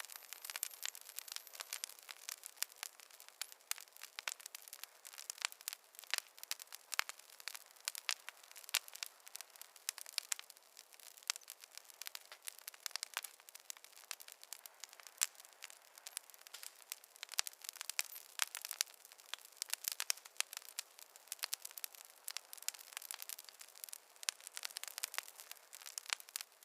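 Fireplace fire crackling: a steady stream of small, irregular pops and snaps over a light hiss.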